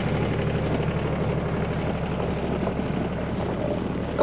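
1985 John Deere 1050 tractor's three-cylinder diesel engine running steadily with a low, even drone.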